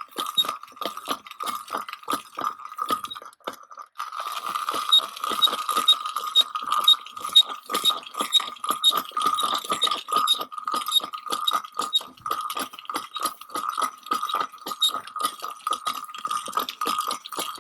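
Electric fence wire reel clicking rapidly as the wire is paid out, over a steady high hum; the clicking stops briefly about three to four seconds in, then carries on.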